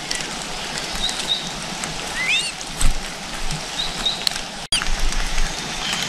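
Small birds at a nest giving short, high chirps every second or two, some rising and curling, over a steady hiss.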